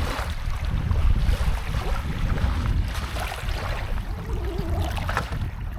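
Wind buffeting the microphone: a heavy, uneven low rumble, with a fainter rushing hiss over it.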